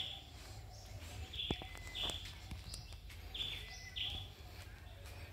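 A bird calling in short, high two-note calls, each pair repeated about every one and a half to two seconds, over a faint low rumble.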